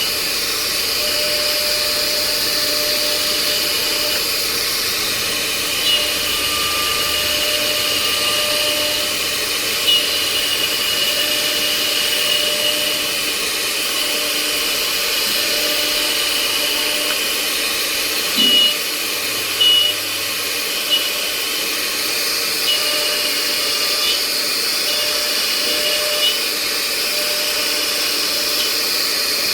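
CNC router running: a steady high-pitched whine over a steady rushing noise, with a few brief louder bursts along the way.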